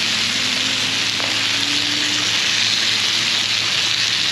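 Sliced onions and green bell peppers sizzling steadily in hot oil on a Tembo Tusk Skottle, a wide, flat, plow-disc grill: an even, bright frying hiss.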